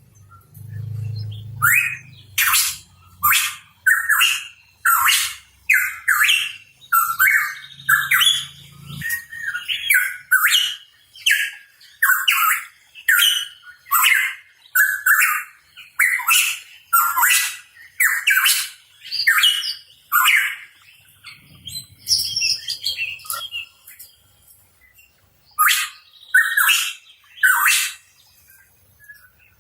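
Pitohui calling: a fast run of harsh, downward-sweeping notes, about two a second. After a short break it gives three more notes near the end.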